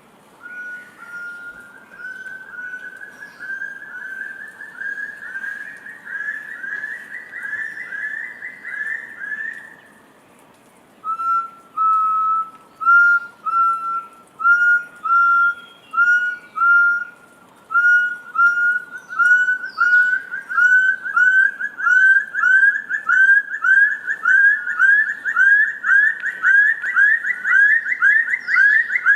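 Forest quail calling: a long series of repeated whistled notes that climb steadily in pitch and come faster as the series goes on. It pauses about ten seconds in, then starts a second, louder series that again rises and speeds up.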